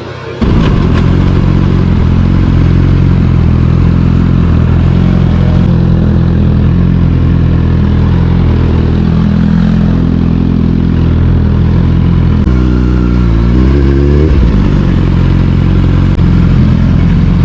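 Suzuki sportbike engine running steadily at speed, with wind noise over it. About twelve seconds in the revs drop and then climb again.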